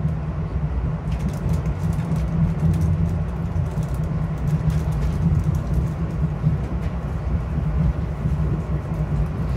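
Metro-North Hudson Line commuter train running between stations, heard from aboard: a steady low rumble of wheels on rail, with scattered faint ticks and rattles.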